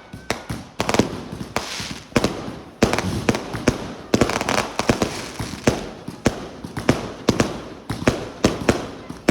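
Fireworks going off in quick, irregular succession: sharp bangs and crackles several times a second, with hiss trailing between them.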